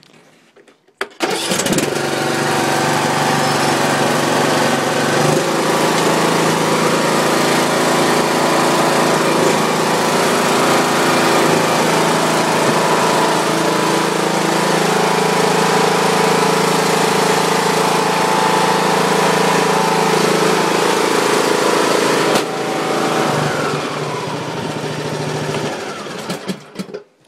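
Craftsman YT3000 riding mower's 21 hp Briggs & Stratton Platinum engine on a cold start, catching about a second in and then running steadily. Around twenty-two seconds in its sound changes and drops slightly, and it shuts off near the end.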